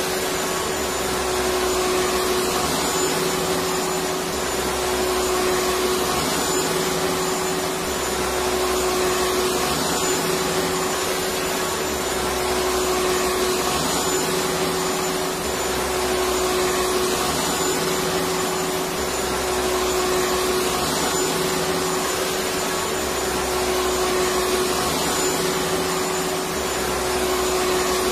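Electric vacuum cleaner running steadily: a whooshing rush of air with a constant motor hum, its low end swelling slightly every four seconds or so.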